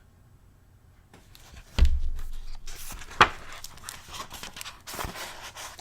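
Pages of a paper picture book being handled and turned: a soft thump about two seconds in, then paper rustling with a couple of sharp clicks.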